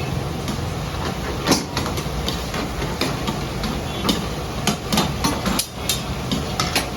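Irregular sharp knocks and clatter over a steady low machine rumble.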